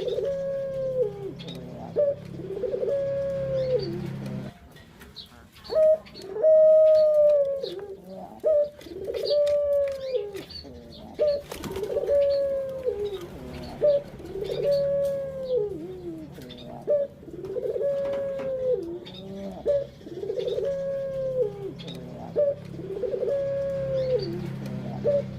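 A puter (ringneck dove) cooing over and over, about one drawn-out coo every two seconds, each coo dropping in pitch at its end. A faint low hum runs underneath part of the time.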